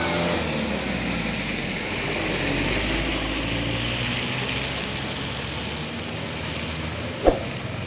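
Heavy truck's diesel engine running under load, its pitch rising and falling, with a single sharp knock near the end.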